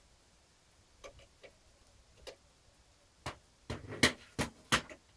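Sharp clicks and knocks of an optical (DVD read-write) drive being handled and fitted into a PC case's drive bay. A few light, scattered clicks come first, then a quick run of louder knocks about three and a half to five seconds in.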